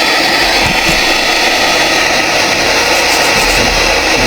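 Loud, steady hiss of radio static from a PSB7 spirit box sweeping through radio stations, played through a small external speaker.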